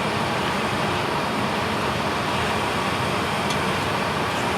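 Heil gas furnace running, its blower fan making a steady rushing noise.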